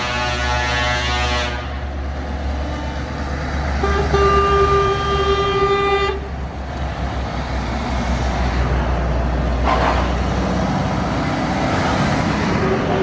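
Truck air horns blasting over the low rumble of passing diesel trucks. One horn ends about a second and a half in, a longer steady one sounds from about four to six seconds, a short toot comes near ten seconds, and another horn starts at the end.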